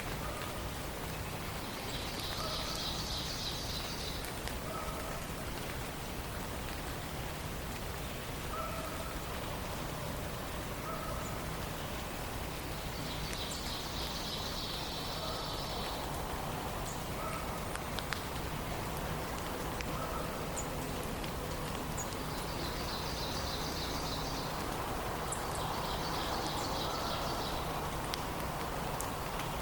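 Forest songbirds in a dawn chorus: one bird repeats a rapid, even trill about two seconds long four times, and another gives a short low call every couple of seconds over a steady background hiss.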